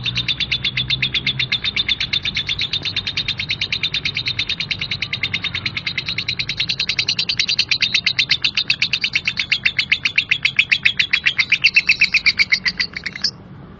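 Female lovebird's harsh 'ngekek' song: one long unbroken chattering trill of rapid notes, about ten a second. It grows louder in the second half and cuts off suddenly near the end.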